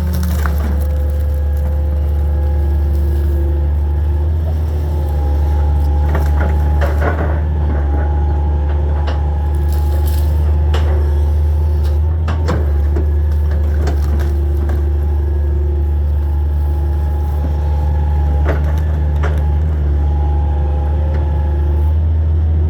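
Hitachi 225 excavator's diesel engine running steadily under load, with a whine that comes and goes as the hydraulics work, and scattered cracks and knocks of wood and debris being crushed and moved.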